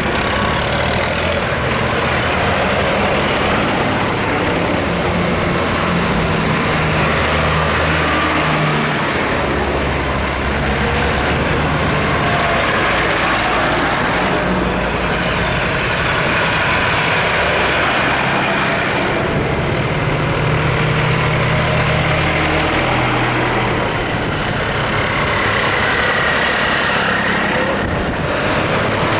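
Tractors and cars driving past one after another, their engines running, with a steady road roar and low engine notes that change every few seconds as each vehicle goes by.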